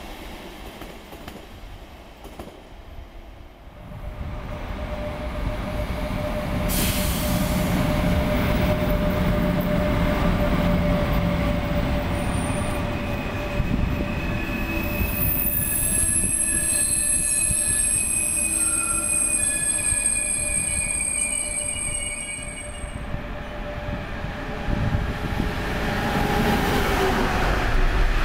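Electric passenger trains rolling through a station: after a quieter start, an Intercity train hauled by a class 103 electric locomotive rumbles past, its wheels squealing high and long partway through. Near the end the noise rises again as a container freight train passes.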